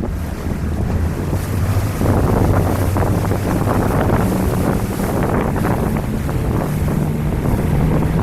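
A boat under way: a steady low engine drone mixed with rushing water and wind buffeting the microphone. It gets louder about two seconds in.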